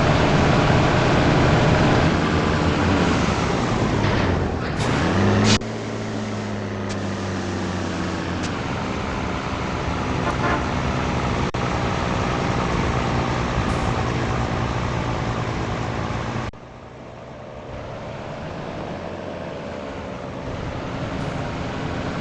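Heavy truck's diesel engine running on the road. Its pitch falls steeply about five seconds in, then holds steady. The sound drops sharply in level about sixteen seconds in.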